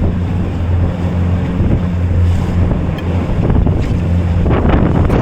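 Motorboat engine running with a steady low drone while the boat pounds through big waves, with heavy wind on the microphone and water splashing against the hull, most strongly near the end.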